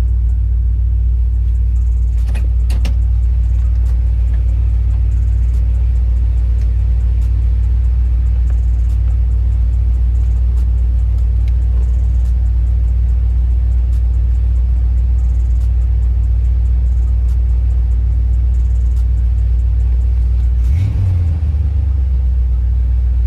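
1988 box Chevy's engine idling, a steady low rumble heard from inside the cabin. Two light clicks come about two seconds in, and the rumble briefly changes near the end.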